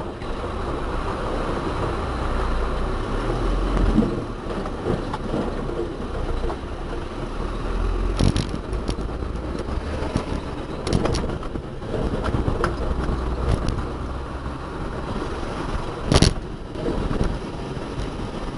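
A vehicle's engine running steadily, with a few sharp knocks or clacks. The loudest knock comes about 16 s in.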